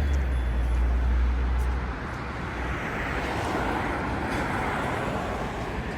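Street traffic: a deep rumble that stops about two seconds in, then a vehicle passing with a hiss that swells and fades.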